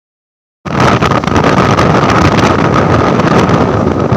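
Motorcycle running at speed with loud wind rushing over the microphone and a steady high whine. It starts abruptly under a second in.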